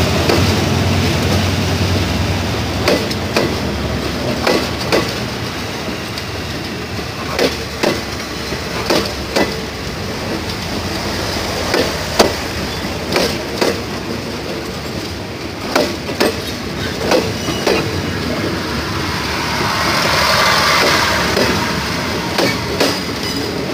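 Passenger carriages of a train rolling past close by, a steady rolling rumble with sharp knocks from the wheels passing over rail joints, often in pairs, every second or so. A louder rushing swell comes near the end.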